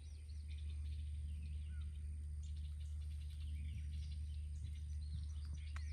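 Several birds chirping and singing, many short overlapping calls, over a steady low rumble.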